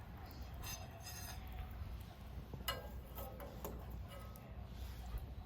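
Scattered light metallic clicks and clinks, some ringing briefly, over a low steady rumble, around a wood fire burning in a homemade stainless steel fire pit.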